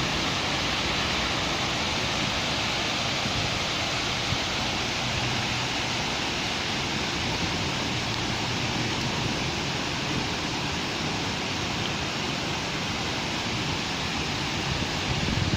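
Steady rain falling on a city street, an even dense hiss, with a low rumble of traffic beneath it; a vehicle grows louder near the end.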